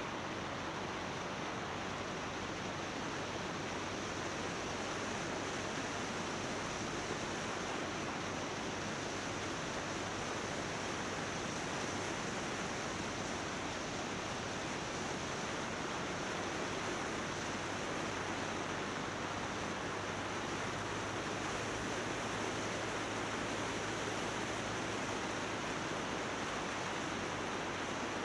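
Steady rushing wind noise on an action camera's microphone as a motorbike rides along, with a low steady hum underneath.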